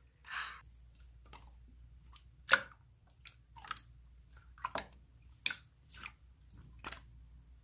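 Slime being squeezed and poked by hand, giving scattered wet clicks and squishes, about eight in all.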